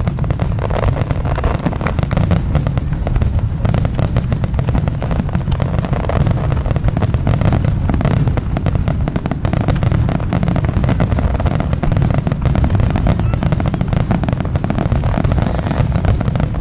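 Fireworks display going off without pause: rapid crackling and popping over a constant low rumble of booms.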